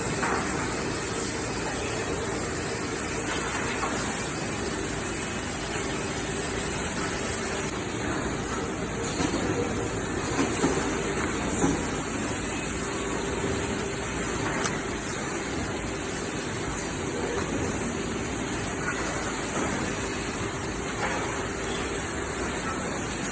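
MJ3971B×250 heavy horizontal band saw running: a steady mechanical hiss with a constant hum underneath and a few faint clicks.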